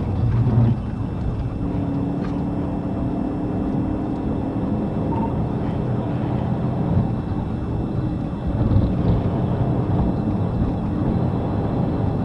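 Police cruiser driving at speed: a steady drone of engine and road noise.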